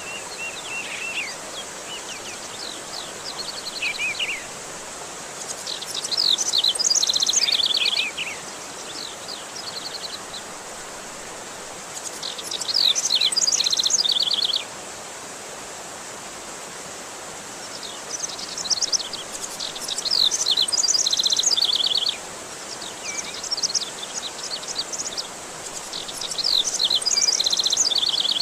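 Oriental magpie-robin singing in loud bursts of quick whistles and rapid trills over a steady rush of flowing water. This is a water-therapy track used to stir a magpie-robin that has stopped singing.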